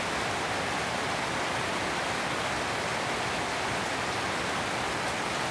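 Heavy rain pouring steadily onto garden foliage: a dense, even hiss that does not let up.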